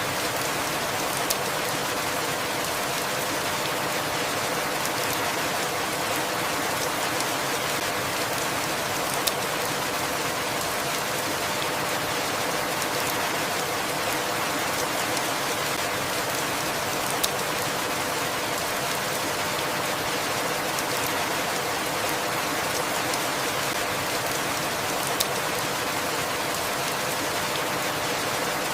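Steady rain falling, an even hiss with a sharp single drop tick about every eight seconds.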